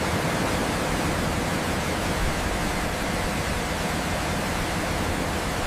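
A steady, even rushing noise, like a hiss spread across all pitches, that comes in abruptly and holds at one level throughout.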